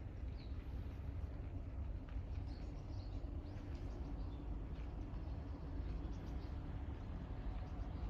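Steady low wind noise rumbling on the microphone, with a few faint high bird chirps about half a second in and again around three seconds in.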